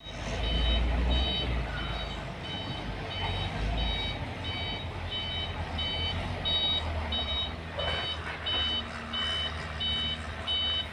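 Truck's reversing alarm beeping steadily, about two short beeps a second, over the low rumble of its engine.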